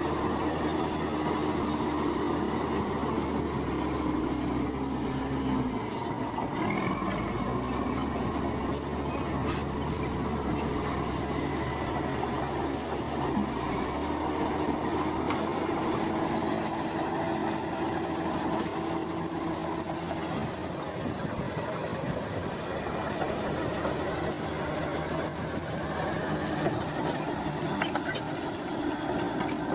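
Heavy earthmoving machinery at work: a Komatsu crawler bulldozer's diesel engine running steadily under a mix of machine noise. Several steady whining tones run through it and shift in pitch a few seconds in.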